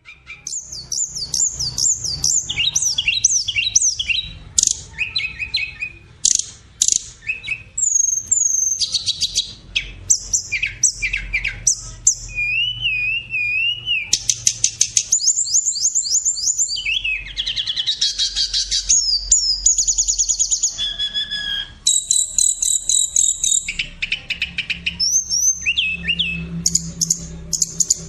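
Pet cockatiel chattering and whistling without pause: a busy run of high chirps, wavering whistled notes and quick trills.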